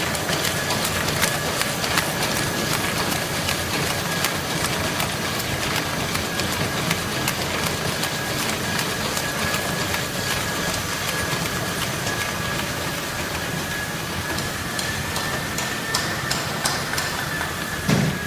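Paper-bag handle-making machine running: steady mechanical noise with many quick clicks and knocks over a steady high whine, and a single low thump near the end.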